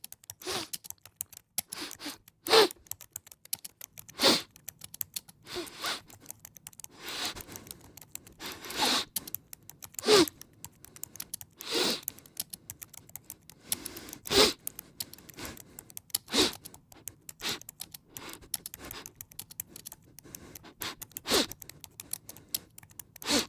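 Typing on a computer keyboard: a run of irregular keystrokes, with several louder key strikes standing out.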